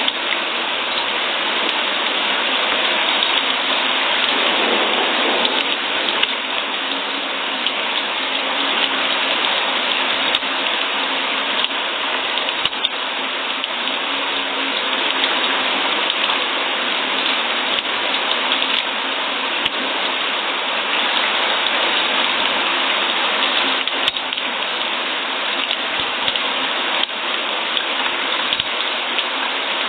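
Steady rainfall: an even hiss of rain with occasional sharper drops.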